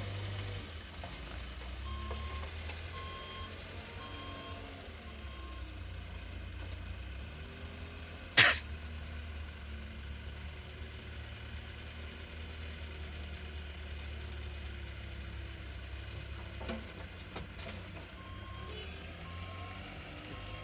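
Truck engine running low and steady as the truck reverses, with its reversing alarm beeping about once a second from about two to six seconds in and again near the end. A single sharp knock about eight seconds in is the loudest sound.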